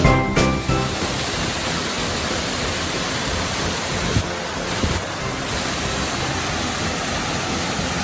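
Waterfall rushing steadily, a constant even roar of falling water. A jingly music track dies away in the first second.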